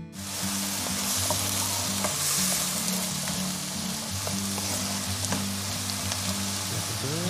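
Diced carrot and other vegetables sizzling in hot oil in a non-stick wok, starting abruptly, while a spatula stirs them with faint clicks and scrapes against the pan.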